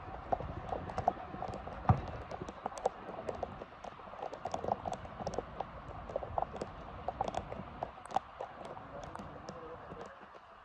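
Football players' running footsteps and ball kicks during a six-a-side game: many irregular light taps and clicks, several a second, with one sharper knock about two seconds in.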